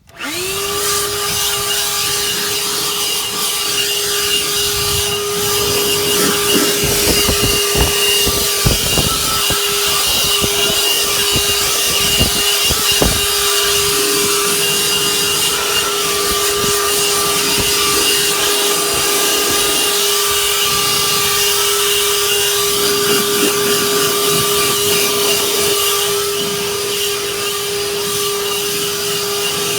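Leaf blower spinning up and running at one steady pitch, blowing loose dust and dirt out of a truck's seats and upholstery, with scattered knocks partway through.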